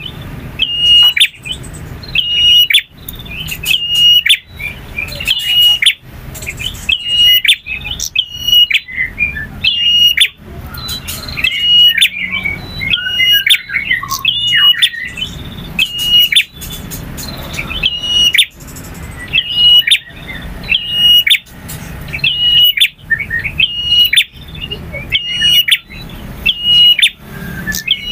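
Male bar-winged prinia (prenjak) singing: sharp, high chirping notes repeated about once a second, with a more varied warbling phrase in the middle.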